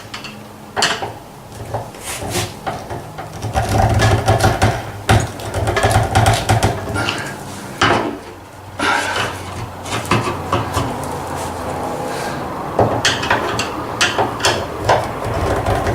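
Irregular knocking, tapping and clattering of hand tools and timber, with metal items clinking. A steady low hum runs under it through the middle.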